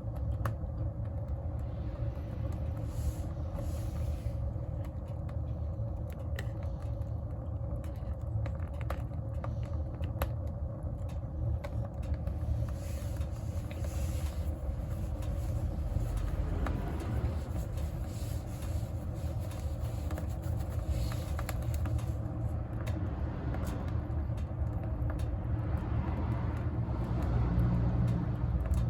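Wood fire burning in a wood stove: a steady low roar with scattered sharp crackles and pops from the burning logs.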